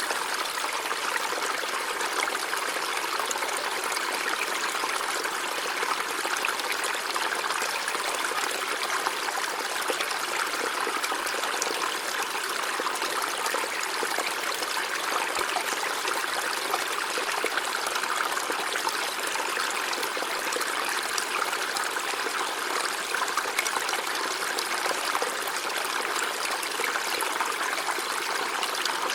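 River water flowing steadily over rocks, an even rushing and babbling without pauses.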